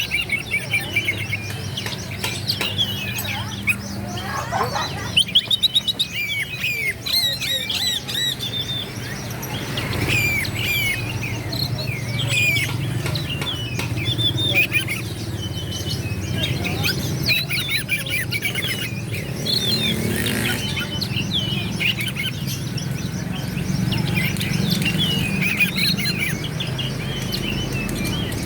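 Oriental magpie-robin (kacer) singing a long, varied song of short whistles, chirps and quick high trills, over a steady low hum.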